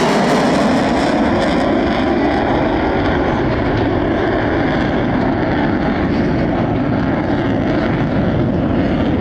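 Fighter jet engine noise from a high-speed pass: a loud, steady rushing roar.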